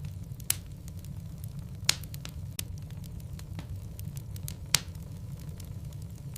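Logs burning in a fireplace: a steady low rumble of the flames with scattered sharp crackles and pops, three louder pops standing out about half a second, two seconds and five seconds in.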